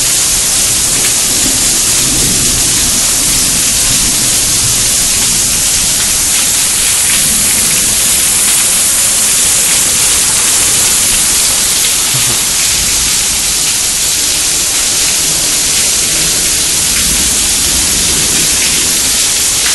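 Heavy rain pouring down in a steady, dense hiss, with a low rumble that comes and goes underneath.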